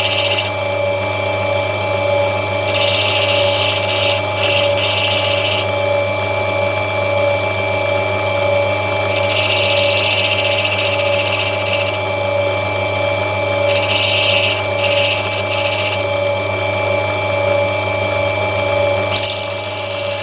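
Lapidary grinding machine running steadily with a motor hum, while an opal is pressed against the wet wheel in repeated stretches of high grinding hiss a few seconds each, as the stone is rubbed back and shaped.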